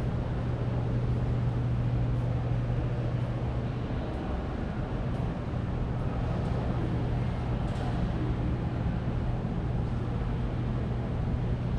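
Room tone: a steady low hum with an even rush of air, fading briefly about four seconds in.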